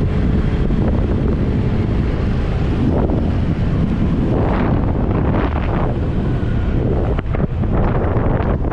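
Wind blasting across the microphone of a riding motorcycle, a dense steady rush heaviest in the low end with gusty swells.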